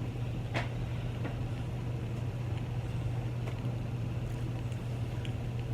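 A steady low hum, with a few faint clicks from eating.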